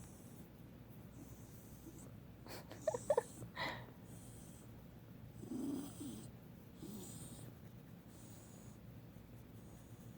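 A dog breathing slowly with soft snoring snorts while relaxed, and a brief cluster of small clicks and squeaks a few seconds in.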